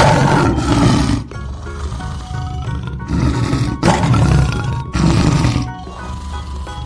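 Lion roaring, a series of loud, rough roars about a second apart over background music.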